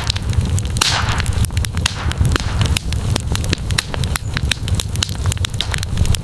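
Wood campfire crackling and popping in quick irregular snaps over a steady low rumble of the flames. About a second in, a brief hiss.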